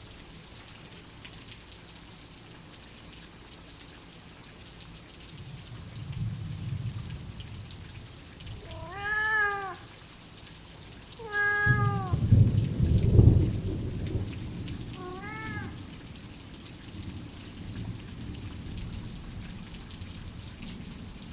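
Steady rain with low rolls of thunder, the loudest about twelve to fourteen seconds in. A cat meows three times, at about nine, eleven and a half and fifteen seconds in, each meow a short rise and fall in pitch.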